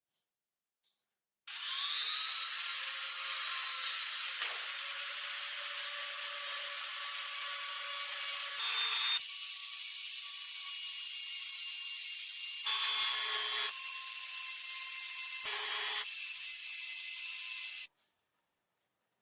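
A small handheld power tool starts up, its motor whine rising briefly, then runs steadily with a dense hiss against the work. Its pitch shifts a few times as the load changes, and it cuts off suddenly near the end.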